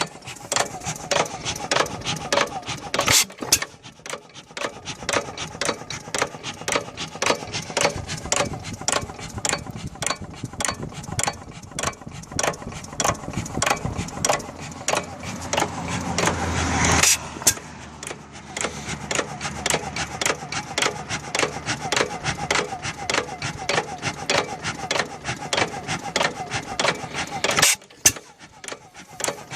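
Monitor 5 hp hit-and-miss engine running, a steady clatter of sharp clicks at about three to four a second. About seventeen seconds in, a louder rushing noise swells up and cuts off suddenly.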